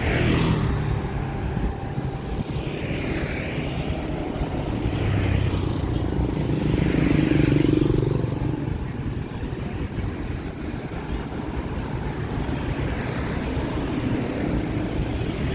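Street traffic: vehicles passing one after another, each swelling and fading, the loudest pass about seven seconds in.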